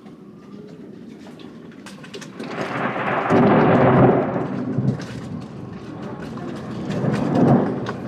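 Thunder rumbling during a thunderstorm. A loud peal builds about two and a half seconds in and lasts about two seconds, then a smaller one comes near the end, over a background of rain.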